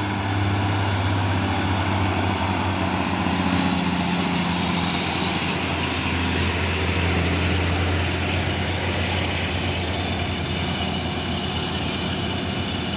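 Heavy diesel truck engine running steadily with a low drone, its pitch shifting slightly a few seconds in.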